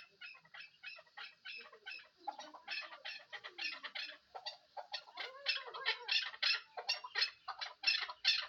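Chukar partridge calling: a fast run of short clucking notes, several a second, growing louder through the second half.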